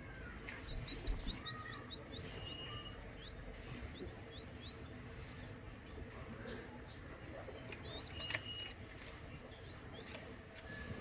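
Small bird chirping in quick runs of short, high notes, with a fast burst of about seven chirps near the start and shorter runs later.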